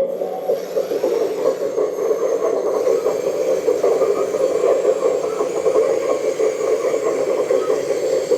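K961 336GC RC hydraulic excavator running while its grab is worked, a steady rough whirring buzz.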